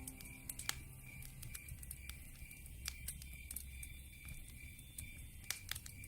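Open wood fire crackling, with a few sharp pops standing out. Under it, a high chirp pulses evenly about three times a second, typical of night insects such as crickets.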